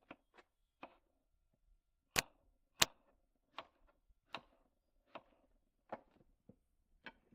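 A kitchen knife dicing raw potatoes on a cutting board: about eleven sharp taps of the blade hitting the board, a little under a second apart, the two loudest about two and three seconds in.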